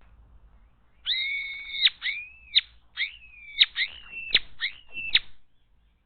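A wild bird's loud whistled calling: one long held note, then a string of short sharp notes, several falling in pitch.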